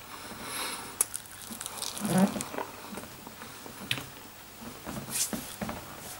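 A person chewing a marinated chicken wing close to the microphone: irregular wet smacks and mouth clicks, loudest around two seconds in.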